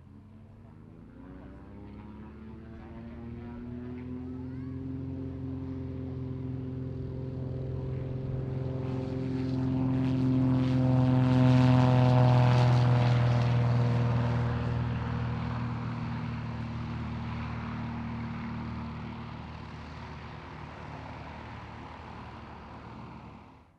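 Piston-engined light propeller aircraft passing by, its engine and propeller drone growing louder to a peak about halfway through and then fading away, before the sound cuts off suddenly.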